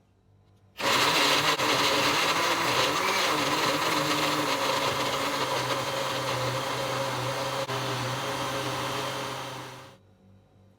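Electric blender blending juice: it switches on abruptly about a second in, runs loud and steady for about nine seconds, then switches off and winds down near the end.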